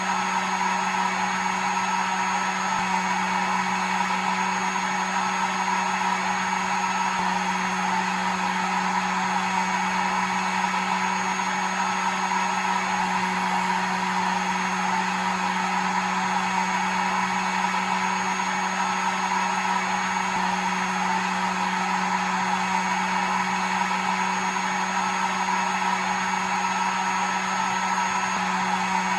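Hair dryer running steadily on one setting: an even rush of air over a constant low motor hum, with no change in speed.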